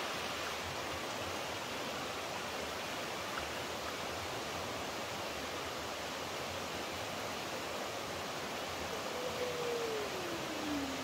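Steady rushing of flowing water, a stream or small waterfall, as an even hiss. Near the end a short tone glides down in pitch.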